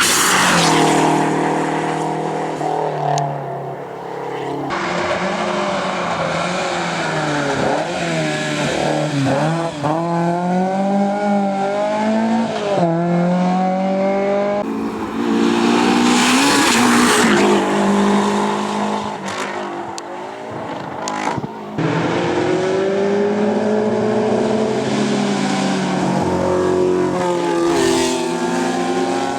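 Hill-climb race cars driven flat out past, their engines revving up and dropping through gear changes, with some tyre squeal. The sound changes abruptly a few times as one car gives way to the next.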